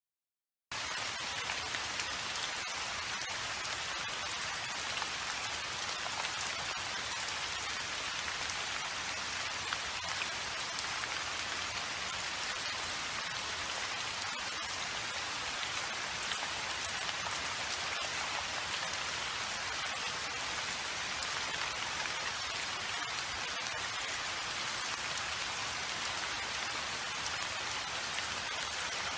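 Steady rain falling, an even hiss of many drops with faint pattering, starting abruptly about a second in.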